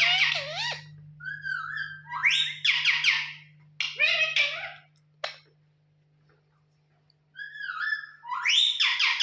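Pet parrot calling: phrases of a short warbling whistle running into harsh squawks, about four times, with a pause of about two seconds partway through. A faint steady hum runs underneath.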